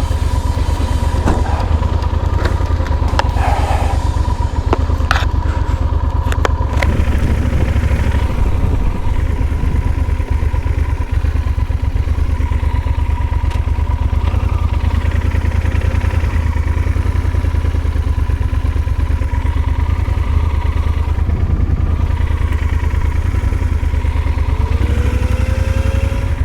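Yamaha Super Tenere's parallel-twin engine running steadily under way, a deep continuous rumble, with a few sharp clicks in the first several seconds and a brief rising tone near the end.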